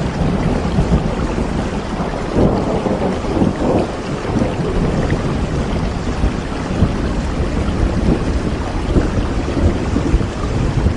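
Steady rain with a low, continuous rumble of thunder, which swells in just as it begins.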